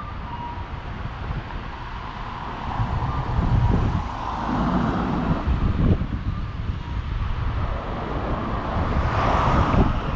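Street traffic with wind buffeting the microphone: a low rumble throughout and a vehicle passing close, swelling louder about nine seconds in.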